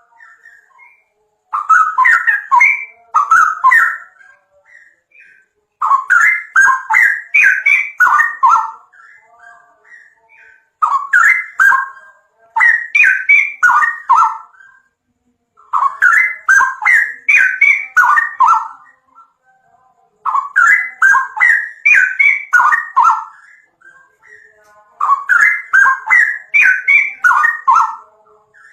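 A songbird singing loud, quick phrases of whistled and chirped notes, each phrase about three seconds long, repeated six times with short pauses between.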